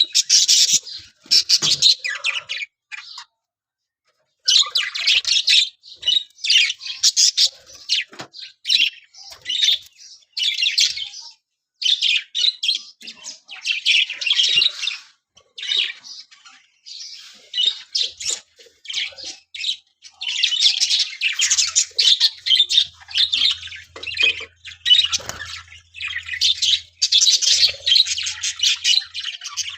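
Pet parrot chattering and squawking in quick runs of short, harsh, high-pitched calls, with brief pauses between runs, almost continuous near the end.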